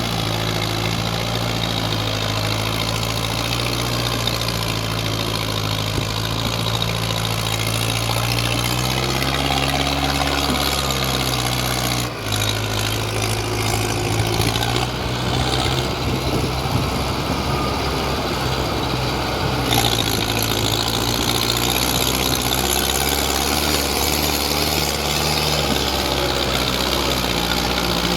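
Mahindra Arjun 555 tractor's diesel engine running steadily under heavy load, hauling a soil-laden trolley up a steep ramp. Its note shifts in pitch about ten seconds in, dips briefly, and runs rougher after that.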